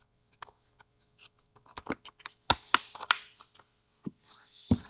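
Typing on a computer keyboard: scattered, irregular key clicks, with a quicker run of louder ones about two and a half to three seconds in.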